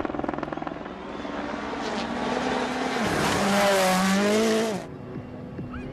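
Rally car at speed, its engine running hard and growing louder over a few seconds, then cutting off abruptly about five seconds in, leaving a quieter engine note.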